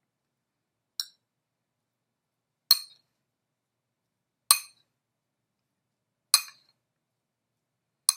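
A utensil clinking sharply against a bowl five times, evenly spaced about every two seconds, while the minced olive and green onion tapenade is mixed.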